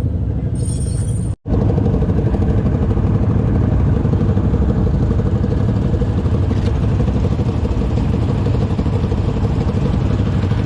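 ATV engine running steadily with a low rumble and a steady drone, the sound cutting out for an instant about a second in.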